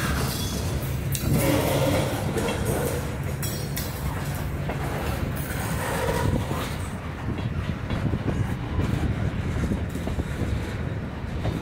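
Freight train cars rolling past at close range: a steady rumble of steel wheels on the rails, with a few short sharp knocks from the cars as autoracks give way to covered hoppers.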